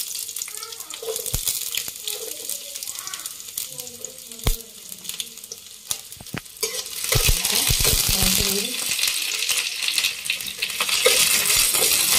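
Chopped garlic sizzling in hot oil in a kadhai, with a spatula clicking and scraping against the pan as it is stirred. The sizzle gets louder about seven seconds in and again near the end.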